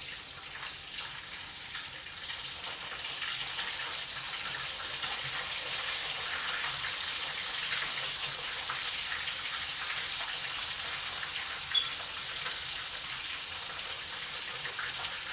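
Chicken pieces frying in hot oil: a steady sizzle that grows louder a few seconds in, with one short sharp pop near the end.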